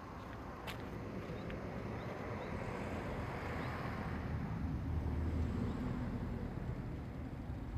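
Car engine running just after starting, heard from inside the car: a low rumble with a steady hum that swells to a peak about five seconds in, then eases slightly. A single sharp click comes near the start.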